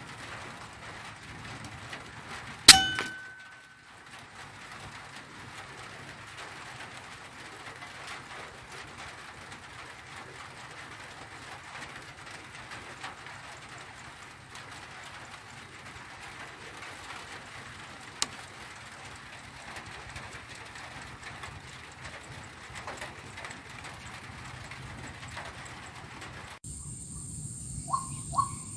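A single sharp air rifle shot about three seconds in, with a brief metallic ring after it, over a quiet outdoor background. A faint click comes later.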